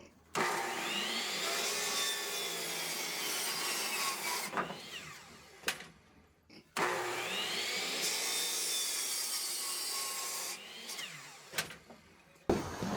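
Power saw cutting a measured length of board, in two runs of about four seconds each with short gaps between.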